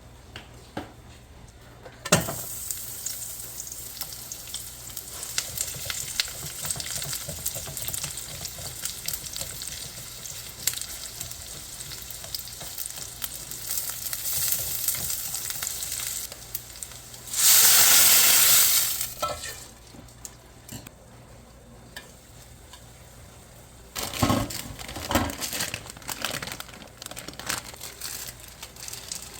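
Food frying in a hot pan: a steady sizzle that starts suddenly about two seconds in, with scattered clicks of a utensil stirring. A much louder hiss surges for about a second and a half around two-thirds of the way through. The sizzling dies down, then starts again with more clicks near the end.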